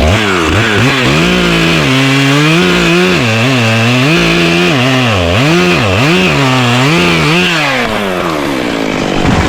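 Chainsaw making the felling cut through the trunk of a decayed, hollow American beech. The engine speed rises and sags again and again as the chain bogs in the wood. It winds down and stops about eight seconds in.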